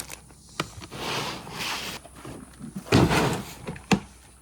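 Cardboard boxes and their contents being handled: a click, a stretch of rustling and sliding, a loud scrape or thump about three seconds in, and a sharp knock near the end.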